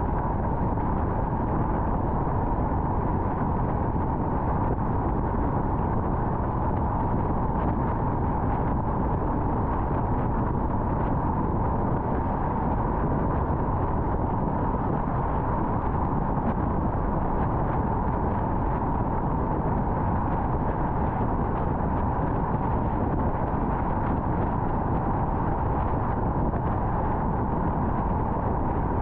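Steady road and tyre noise of a car driving at highway speed, a constant rushing hiss that does not change.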